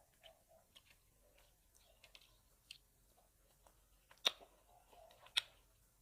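Close-miked chewing of grapes: soft wet smacks and small clicks, with two sharp crisp bites about a second apart near the end.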